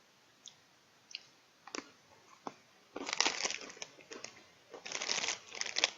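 Crackly handling noise from a Pepero white cookie snack and its plastic packaging: a few light clicks, then bursts of crinkling and crunching from about three seconds in.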